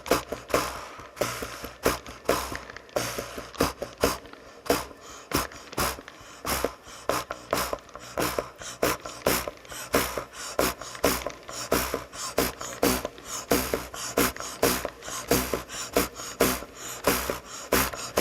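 A fast, somewhat irregular rhythm of sharp percussive strokes, about three to four a second.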